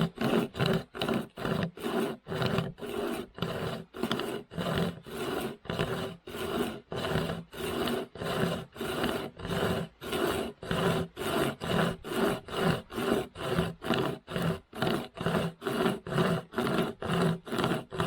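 Pocket chainsaw, a toothed chain pulled back and forth by its hand straps, sawing through hard wood in fast, even strokes of about two and a half a second.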